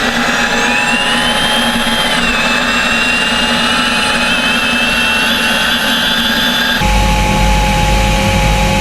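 Rolls-Royce C-20B helicopter turbine engine in the Madmax turbine motorcycle running with a steady high-pitched whine. The whine climbs and drops back about two seconds in. About seven seconds in, the sound cuts to a deeper, heavier rumble.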